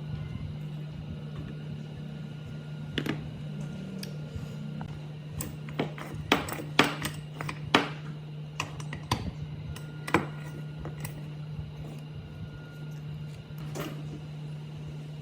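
Scattered sharp clinks and knocks, a dense run of them in the middle, over a steady low hum.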